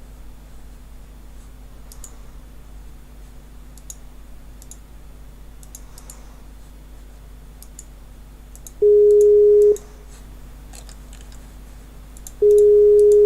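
Telephone line tone: two loud, steady beeps of about a second each, roughly three and a half seconds apart, over a quiet line hum with faint scattered clicks.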